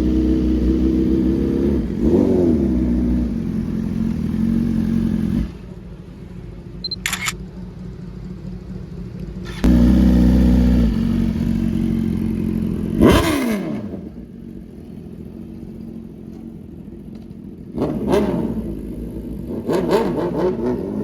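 Sport motorcycles accelerating hard and passing by one after another, engines revving high and then dropping in pitch as each goes past. The sound jumps abruptly between passes several times, with a sharp click about seven seconds in.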